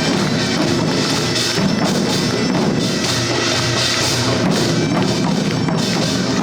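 Korean barrel drums (buk) beaten in a dense, driving rhythm for the Jindo drum dance, played with other traditional percussion.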